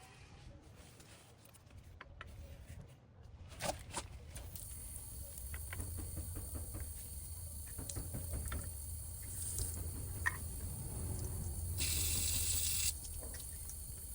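Water running, with scattered clicks and knocks and a steady high whine, and a loud hiss lasting about a second near the end.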